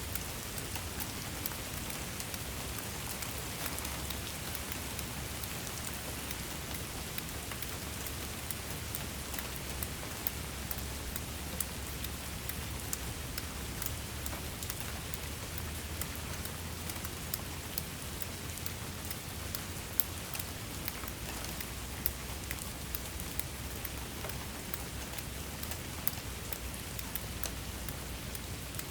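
Steady rain falling: a constant hiss dotted with many small, sharp drop ticks, over a low steady rumble. A few louder drops stand out around the middle.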